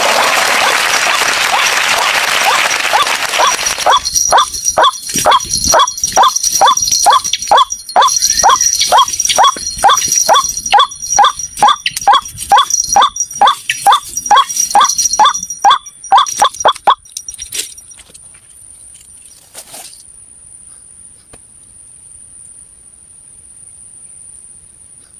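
White-breasted waterhen calls. A loud, raucous chorus opens, then a long run of short, loud, repeated calls at about two a second stops about two-thirds of the way through. A faint steady high whine is left behind.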